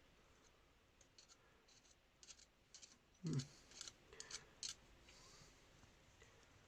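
Faint, scattered clicks and scrapes of small metal engine parts being handled at an open cylinder head, with one louder short knock about three seconds in.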